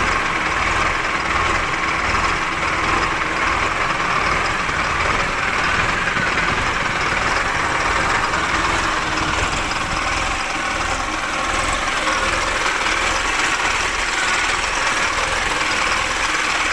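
Mahindra Arjun 555 DI tractor's diesel engine idling steadily.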